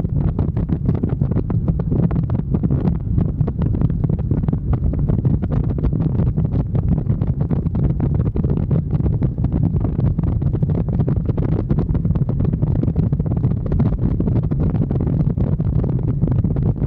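Wind buffeting the microphone on a moving motorcycle, a steady low rumble with the bike's running drone underneath.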